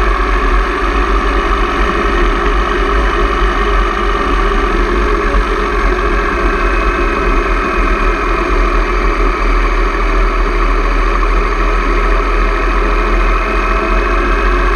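Motorcycle engine running at a steady pace, with a strong low rumble and no changes in pitch or level.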